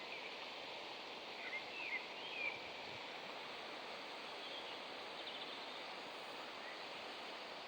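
River water flowing with a steady rush, with a few short bird chirps about a second and a half to two and a half seconds in.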